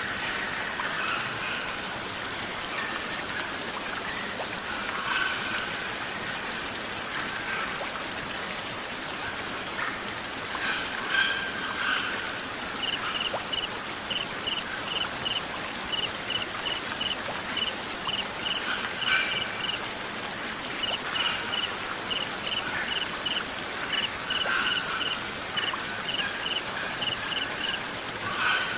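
Mixed nature soundscape: steady rain-like water hiss with scattered songbird chirps. From about halfway, a chirping cricket adds short high pulses, about three a second, in on-and-off runs.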